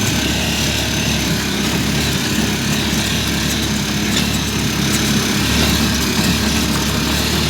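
Small motor vehicle's engine running steadily while riding, with a continuous rush of wind and road noise.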